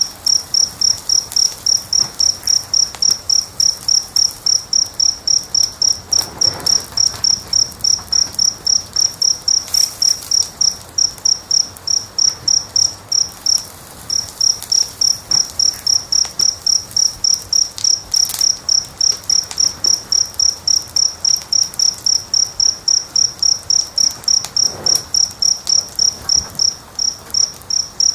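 A cricket chirping steadily, about three high-pitched chirps a second, with a brief pause about halfway through, over the faint crackle of a wood fire.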